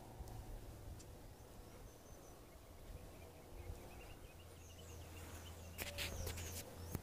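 Faint chirping and twittering of small songbirds, a quick run of short notes in the middle, over a steady low hum. A cluster of sharp clicks comes about six seconds in.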